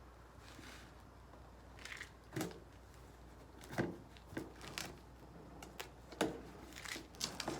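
A parcel's packaging being opened and handled: irregular rustles, clicks and light knocks that start about two seconds in.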